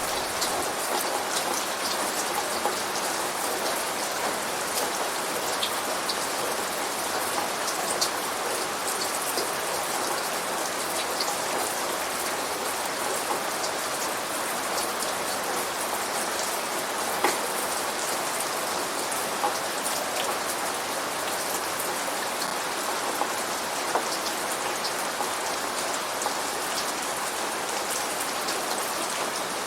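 Steady rain falling, with individual drops ticking sharply now and then; no thunder.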